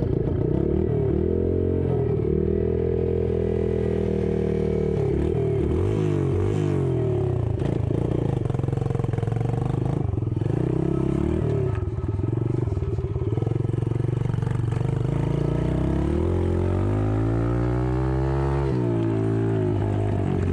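Yamaha TT-R110 dirt bike's small four-stroke single-cylinder engine running, its pitch rising and falling repeatedly with the throttle, with one long climb in pitch near the end that drops off.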